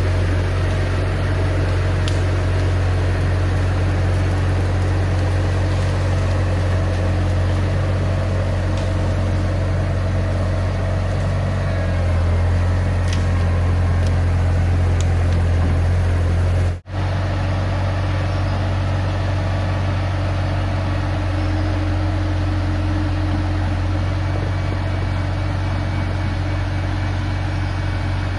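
Diesel engine of a Bobcat T250 tracked skid-steer running steadily with a deep low hum. The sound drops out for an instant about seventeen seconds in, then carries on the same.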